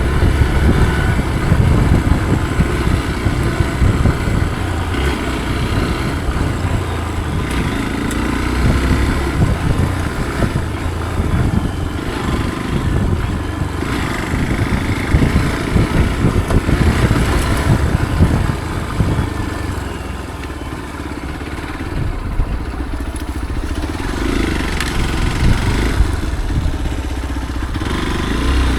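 Motorcycle running under way on a dirt trail, a continuous heavy rumble that eases off a little about twenty seconds in.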